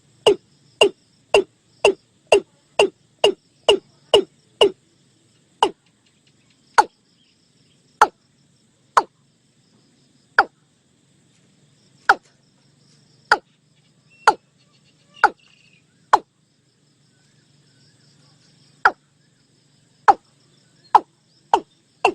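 Watercock calling: a series of short hollow notes, each falling in pitch. They come about two a second at first, then slow to roughly one a second with a few longer gaps, and quicken again near the end.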